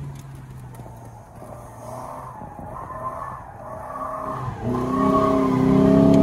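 Fiat Tipo engine dropping back toward idle, then revved hard about three-quarters of the way through, its pitch climbing steadily as it gets loud.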